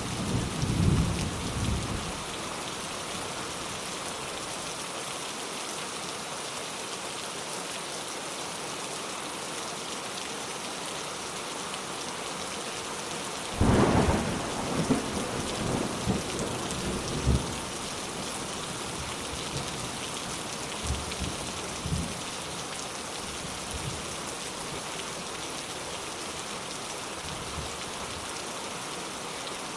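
Steady rain with thunder: a low rumble dies away in the first two seconds, then about halfway through a louder thunderclap rolls on for a few seconds, followed by a couple of fainter rumbles.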